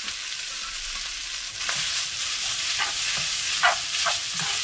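Seaweed stems sizzling as they land in hot oil in a stainless steel wok, the sizzle getting louder about a second and a half in. A spatula stirs them with a few short scrapes against the pan.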